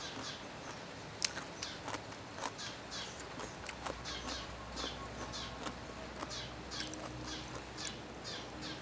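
Birds chirping over and over in short calls that fall in pitch, two or three a second, with a few sharp clicks mixed in.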